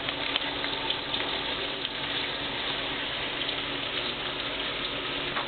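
Water running steadily from a tap, with a few small splashes from a budgie bathing in it.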